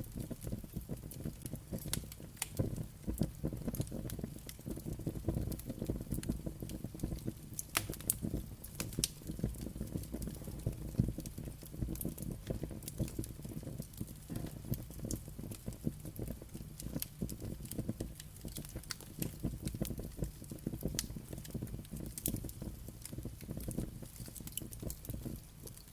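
Wood fire crackling and popping, with many small irregular snaps over a steady low rumble of flame.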